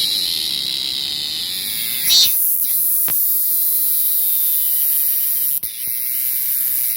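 Cicada singing: a loud, continuous, high-pitched buzz. It swells briefly about two seconds in, and a steady low hum runs underneath.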